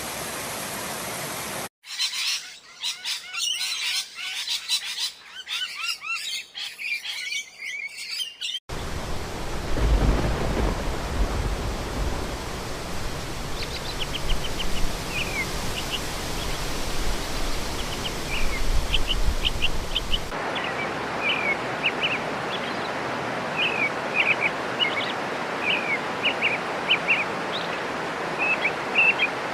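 Small birds chirping repeatedly over a steady rushing noise, in several sections joined by abrupt cuts. The chirping is busiest from about two seconds in and again from about twenty seconds on.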